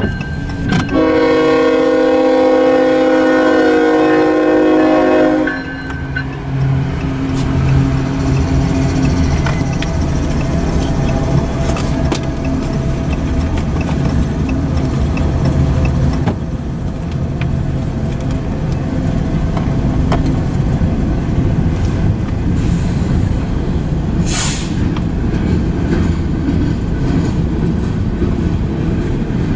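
A diesel freight locomotive's air horn sounds one long held chord beginning about a second in, for roughly four and a half seconds. The engine then rumbles past, and freight cars carrying intermodal trailers roll through the crossing with a steady rumble and clatter of wheels on rail. There is a brief high hiss about 24 seconds in.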